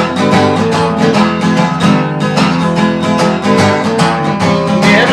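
Acoustic guitar strummed in a steady rhythm, playing the song's chords between sung lines.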